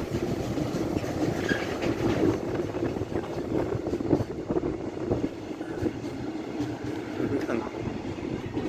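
A train rolling past: a steady rumble of wheels on the rails, broken by irregular clacks.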